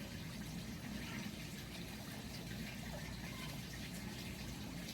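Steady background noise: a low hum with faint hiss and no distinct sound events.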